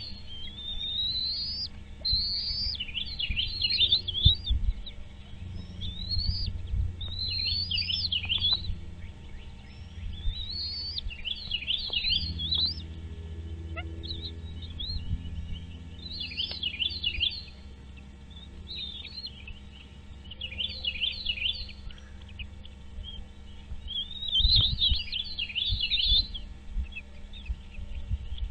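A bird calling over and over, in short bursts of rapid, high, rising chirps every second or two, over a steady low hum.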